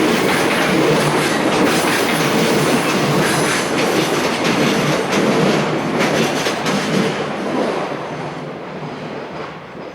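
Container flatcars of a freight train rolling past, their wheels clicking over the rail joints. The sound fades over the last few seconds as the train draws away.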